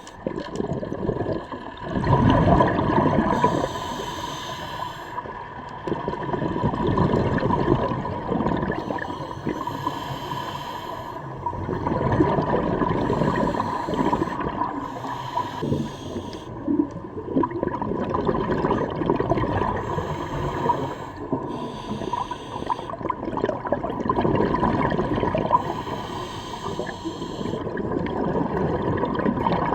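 Scuba diver breathing underwater through a regulator: hissing inhalations alternate with bubbling exhalations, about one breath every five seconds.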